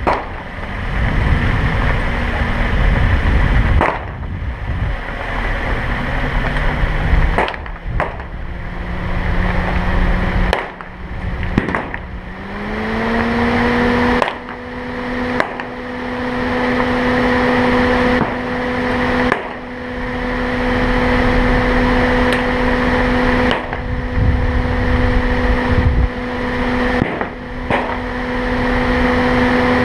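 A vehicle being driven, with a steady rumble of road and wind noise. About twelve seconds in, a humming drone from the engine or drivetrain rises in pitch, then holds steady. The sound cuts out briefly several times.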